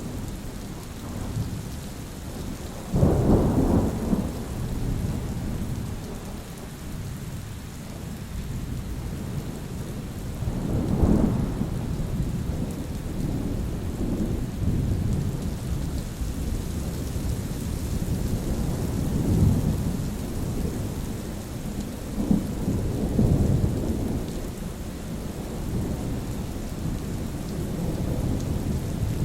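Thunderstorm: steady rain with repeated low rolls of thunder, the loudest crack-and-rumble about three seconds in and further rumbles near 11, 19 and 23 seconds.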